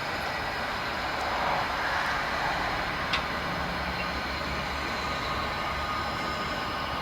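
Train running with a steady rumbling noise, with one sharp click about three seconds in.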